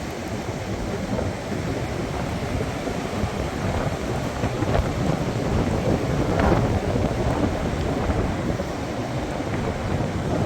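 Strong gusting wind buffeting the microphone and roaring through trees during a severe windstorm with hurricane-force gusts.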